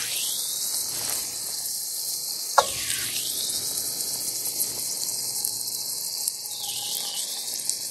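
Ground beef and diced peppers sizzling steadily in a frying pan, a thin high hiss, with one sharp knock about two and a half seconds in.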